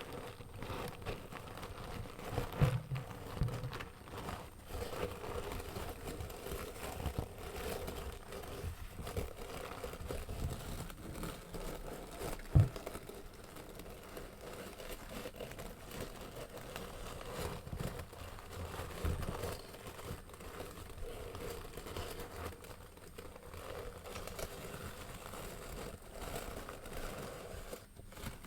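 An object being handled and scratched close to the microphone: a dense, continuous run of small crinkling and crackling sounds, with one sharp knock about twelve seconds in.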